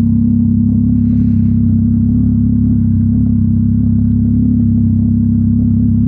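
Yamaha MT-09 SP's inline three-cylinder engine running at a steady, unchanging pitch through a Mivv X-M50 exhaust while cruising at constant speed. A brief hiss comes in about a second in.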